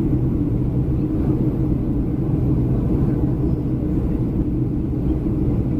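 Steady cabin noise inside a Boeing 737-300 in flight: a low rumble of engines and airflow with a constant low hum.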